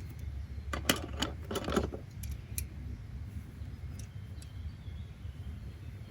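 A short clatter of small clicks and rattles, about a second in and lasting under two seconds, with two fainter clicks a little later, over a steady low rumble of background noise.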